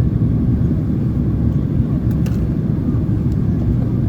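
Steady low rumble of airflow and engine noise heard inside the cabin of a Boeing 767-300ER in flight, with one or two faint ticks.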